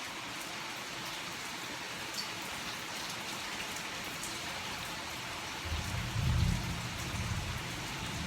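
Steady rain falling, heard through an open door, with faint drips ticking. About six seconds in, a low rumble swells for a couple of seconds and fades.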